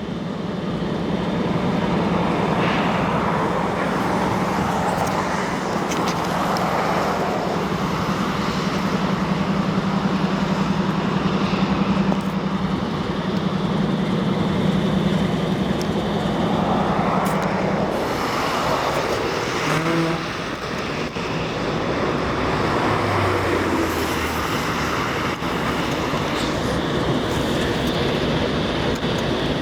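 Steady road traffic noise with vehicles passing now and then, over a steady low hum that cuts off about two-thirds of the way through.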